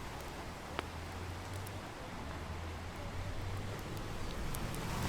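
Wood bonfire crackling, with a few sharp pops, over a steady rush of surf and wind.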